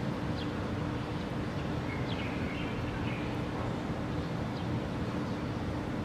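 A few faint, short bird chirps, spaced irregularly, over a steady low rumble with a constant hum underneath.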